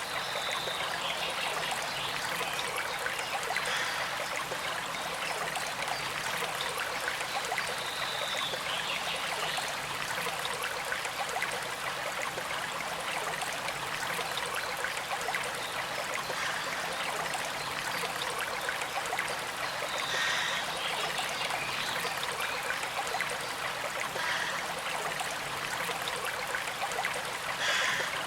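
A small creek flowing steadily: an even rush of running water with a light trickle and little low rumble.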